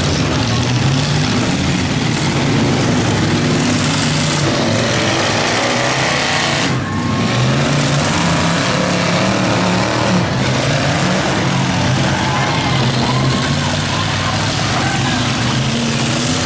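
Several demolition derby cars' engines running and revving together in a dense mix, their pitch rising and falling as the cars drive around and push into each other.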